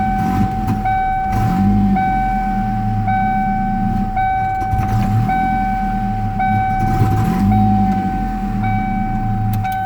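1993 Ford Mustang Fox-body 2.3 L four-cylinder engine idling roughly, its low note wavering unevenly. A high steady tone pulses along with it a little more than once a second.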